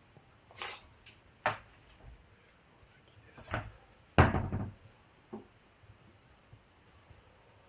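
A few scattered knocks and clicks, with a heavy thud about four seconds in as the loudest.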